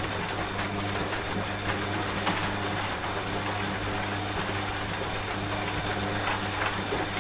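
Steady rain with many small drop ticks, mixed with the steady low hum of a running washing machine.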